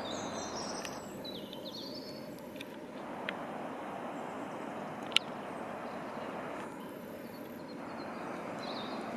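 Two coupled Class 450 Desiro electric multiple units approaching on the line, a steady rumble of wheels on rail. Birds chirp about a second in and again near the end, and there is one sharp click about five seconds in.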